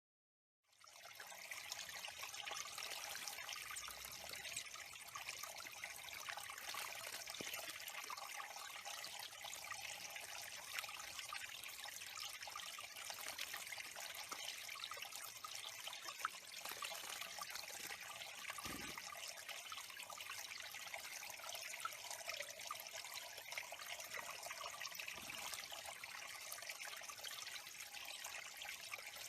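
Water trickling steadily at a bird pond, coming in just under a second in.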